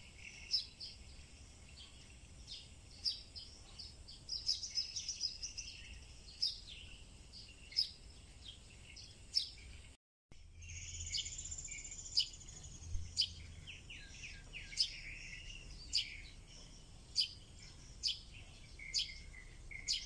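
Outdoor birds chirping and calling: a sharp, high chirp repeated about once a second over softer warbling calls. The sound cuts out for a moment about halfway through, and a short whistle follows.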